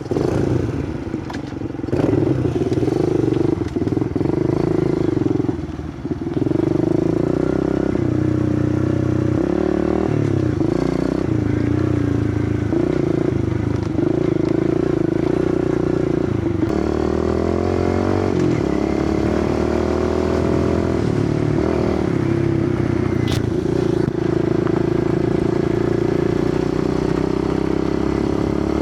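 Kawasaki KLX110 pit bike's small air-cooled single-cylinder four-stroke engine running under way. Its pitch rises and drops with throttle and gear changes through most of the stretch, then holds steady near the end.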